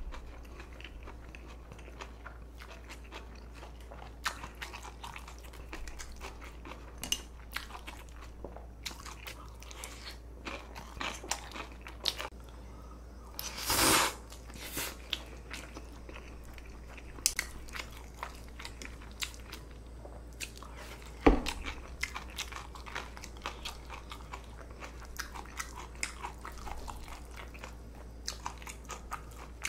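Close-miked eating of spicy cold noodles and kimchi: steady chewing and crunching with many small clicks, one louder, longer burst about halfway through, and a sharp click a few seconds later.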